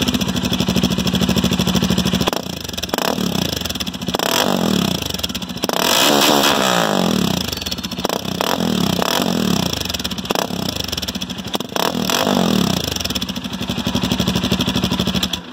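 Bajaj Dominar 400's single-cylinder engine running through an Akrapovic full-system exhaust with a bend pipe and no catalytic converter. It idles, is blipped repeatedly with one longer rev about six seconds in, and drops back to idle after each blip, then settles to idle near the end.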